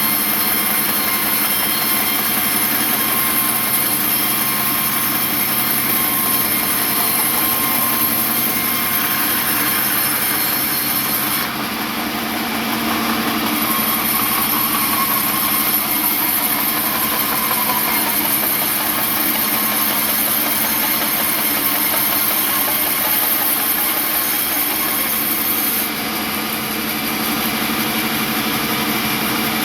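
Sawmill machinery running steadily: a motor hum under a high hiss. The hiss drops away briefly about twelve seconds in, and again near the end.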